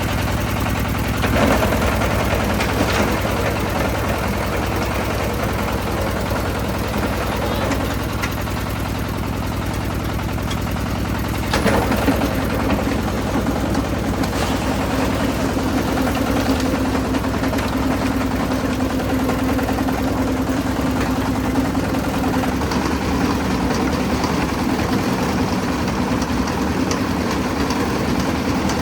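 Concrete mixer running steadily, its motor and turning drum making a continuous engine-like drone, briefly louder about a second and a half in and again near twelve seconds.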